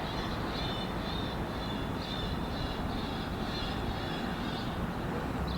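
Steady rumble of diesel locomotives moving through a rail yard, with faint high-pitched tones over it.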